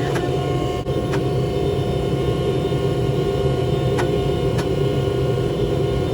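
Steady machine noise with a low hum and a few faint ticks.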